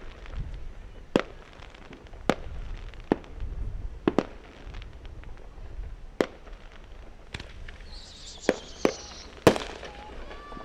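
Distant firecrackers going off one at a time at irregular intervals, about ten sharp cracks, with a high whistling hiss about eight seconds in.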